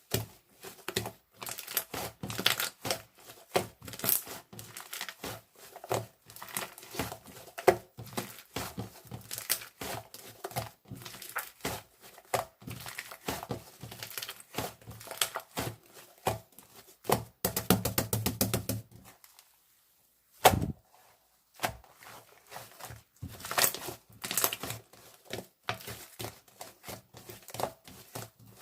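Close-up handling of crinkly material, a steady run of crackles, rustles and small taps. It stops for a couple of seconds about two-thirds of the way through, broken by one sharp tap, then starts again.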